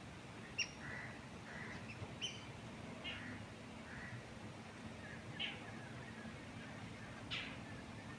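Birds chirping: short scattered calls, a few sharp high chirps among softer, lower call notes, over a steady low rush of wind in trees.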